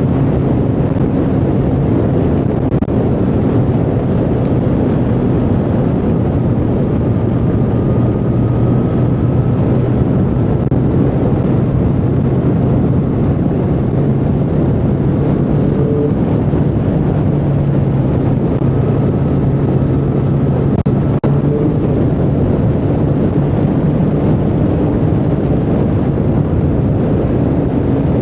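Triumph Street Triple 765R's inline three-cylinder engine running at a fairly steady speed on the move, with wind rushing over the microphone.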